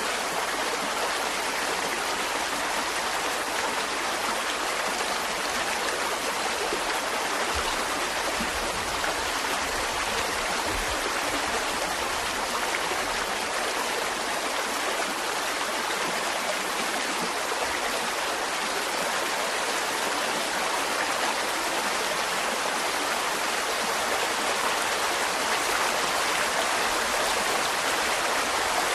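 Mountain stream running steadily, an even rush of flowing water over rocks.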